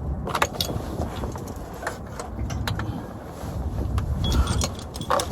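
Wind buffeting the microphone as a low rumble, with a handful of scattered sharp metallic clinks and clicks of tools and parts being handled.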